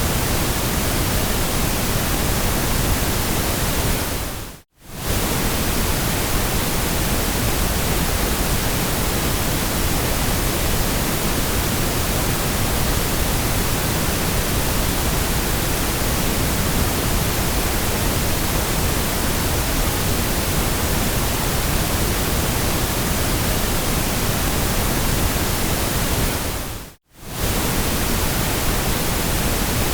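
Steady white noise hiss, even from low to very high pitch, that fades out to silence and straight back in twice, about five seconds in and again near the end.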